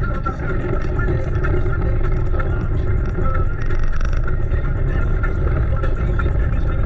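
A car driving: steady engine and road noise with a heavy low rumble.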